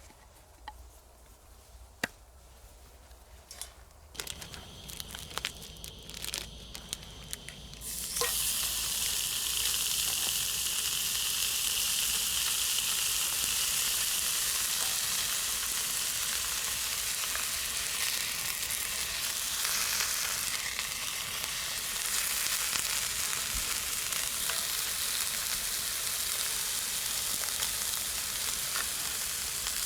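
A few light clicks and knocks, then about eight seconds in a loud, steady sizzle starts suddenly as burger meat begins frying, and it keeps sizzling.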